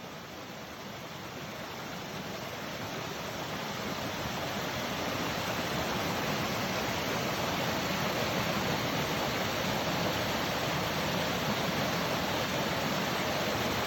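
Waterfall: a steady rush of falling water that grows louder over the first few seconds, then holds even.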